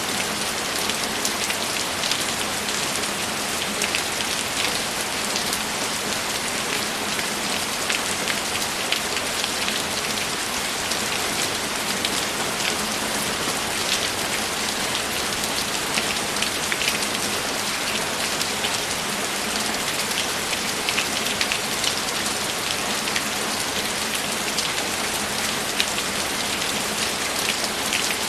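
Steady, even rainfall, with a dense patter of individual drops heard through it.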